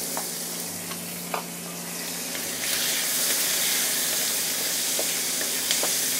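Raw chicken pieces, onion and lemongrass sizzling in hot oil in a wok, being sautéed to release the aromatics. The sizzle grows louder a few seconds in as a spatula stirs them, with light clicks of the spatula against the pan.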